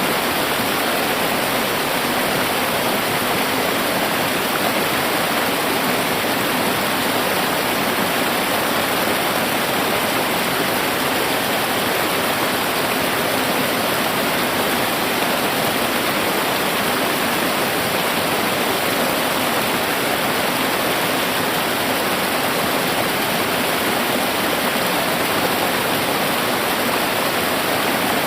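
Steady rush of a river waterfall, water pouring and splashing without a break.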